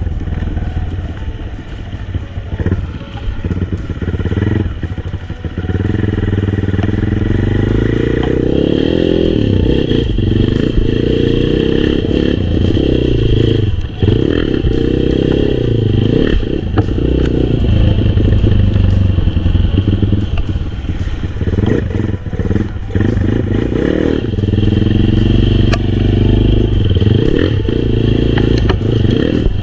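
Honda XRM125 underbone motorcycle's single-cylinder four-stroke engine being ridden hard, its revs rising and falling again and again as the rider opens and closes the throttle, with a brief dip in the engine note about halfway through.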